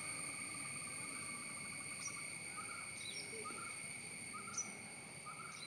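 Steady high-pitched insect drone, with short bird chirps repeating about once a second and a few higher, falling chirps over it.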